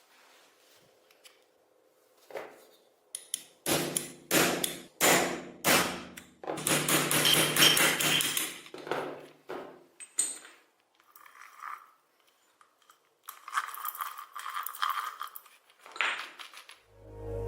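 Workshop handling of metal parts: a run of hard knocks and clatter with short ringing, then a stretch of scraping or rubbing. Music comes in at the very end.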